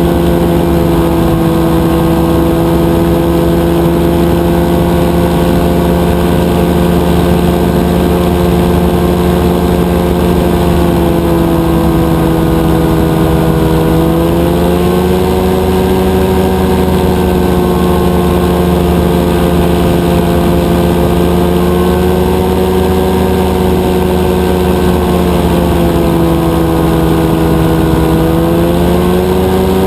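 Rotax 582 two-stroke twin engine of a powered parachute running steadily at power. Its pitch dips slightly and rises again twice.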